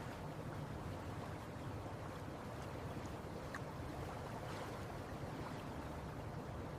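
Faint, steady water-and-boat ambience: an even hiss under a low hum, with a few faint ticks.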